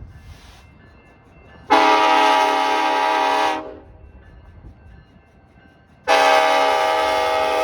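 Diesel locomotive air horn on a BNSF coal train sounding two long blasts. The first lasts about two seconds, and the second starts about six seconds in and is still sounding at the end. They are the opening long blasts of the standard grade-crossing horn signal.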